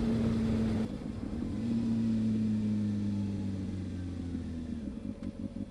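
Honda CB600F Hornet's inline-four engine under way. Its steady note drops away about a second in, picks up again, then slowly falls in pitch before breaking into an uneven low rumble near the end.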